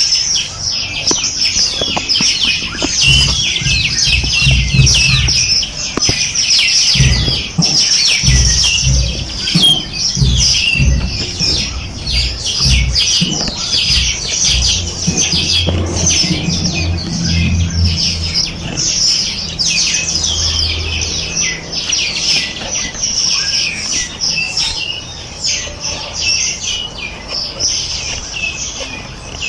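A dense chorus of many small birds chirping and twittering rapidly and without pause. Through much of the middle there is also an irregular low rumble with soft thumps underneath.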